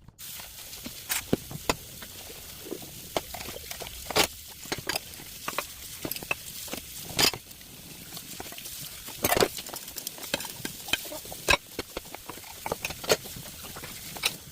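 Household items being handled while cleaning: irregular clicks, clinks and knocks over a steady hiss.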